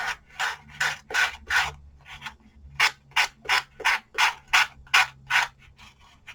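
Tim Holtz pouncer sander with a sanding disc rubbed in quick back-and-forth strokes along the edges of a paper-covered chipboard tag, taking off the overhang. The strokes run about three a second, with a short pause about two seconds in.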